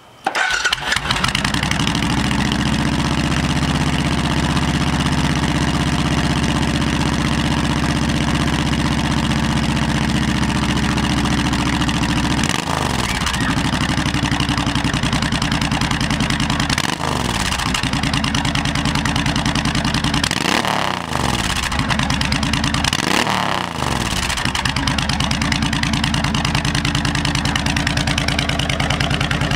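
Suzuki C90 Boulevard V-twin motorcycle engine, breathing through Vance & Hines Longshots exhaust pipes, starting and settling into a steady idle. About halfway through it is revved up and back down in four short throttle blips, then returns to idle.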